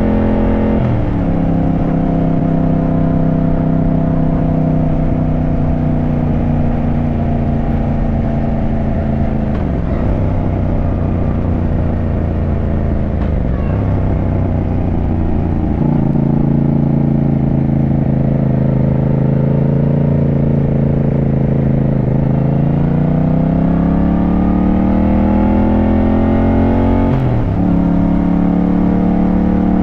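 Yamaha motorcycle engine running on the road: the pitch drops suddenly at a gear change about a second in and again after about ten seconds, holds steady, then rises in one long pull under acceleration over several seconds and drops at an upshift near the end.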